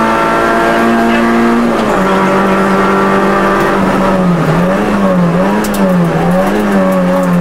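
Rally car engine heard from inside the cockpit, running hard at high revs. The engine note drops in pitch about two seconds in, then rises and falls about three times in the second half.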